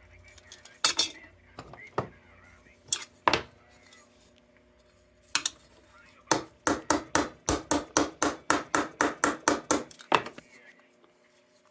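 A small hammer tapping on the thin sheet metal of an old Dietz Blizzard lantern, with sharp metallic knocks: a few single taps, then a quick even run of about four taps a second for several seconds. The tapping is not yet enough for the job: the metal needs more than a little hammer.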